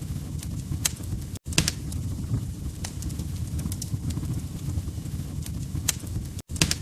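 Wood fire crackling: sharp, irregular pops and snaps over a low steady rumble. The sound cuts out for an instant twice, about a second and a half in and near the end.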